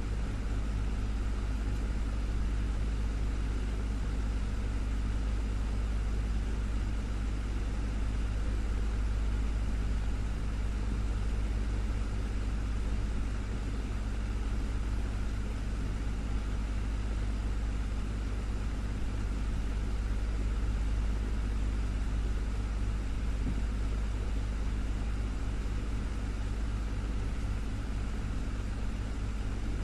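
Desktop electric fan running steadily: a low hum from the motor under an even rush of air from the blades.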